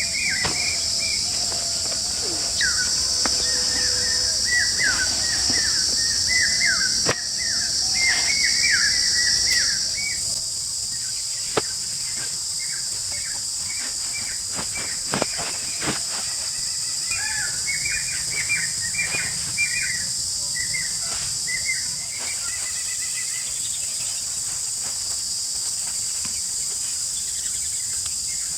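Forest ambience: a steady high-pitched insect drone, with birds chirping in runs of short, repeated calls and a few sharp clicks.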